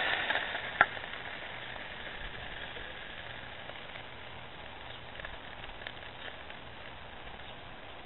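Crab cakes frying in oil in a cast-iron pot: a steady sizzle with scattered small pops, and one sharper pop about a second in.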